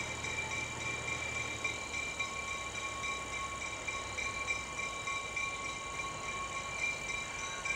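A slow-moving train led by a diesel switcher locomotive, with a low engine rumble that eases off a few seconds in. Steady high-pitched ringing tones run throughout.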